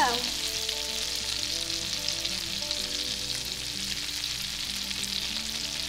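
Kingfish fillets frying in a hot pan of bubbling butter: a steady, crackling sizzle.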